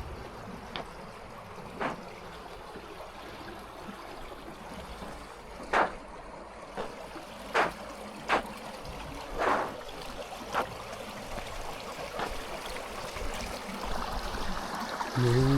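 Steady trickling of water running under or beside the ice, broken by about eight sharp cracks and knocks on the frozen surface, irregularly spaced across the middle of the clip.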